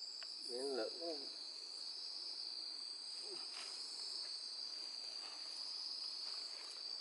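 Night insects, a steady high-pitched chirring chorus, with a brief faint voice about half a second in.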